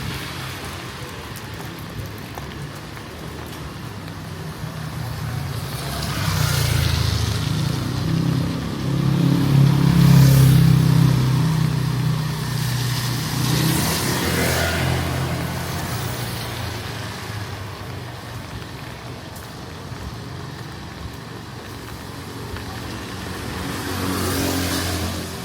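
Road traffic passing close by: engines running with a low hum and tyre noise, several vehicles going past one after another, the loudest about ten seconds in and another near the end.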